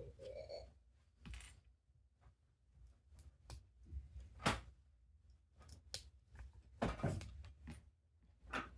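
Plastic Lego pieces clicking and clattering as they are handled and pressed together: a scattering of small sharp clicks, the loudest about four and a half seconds in.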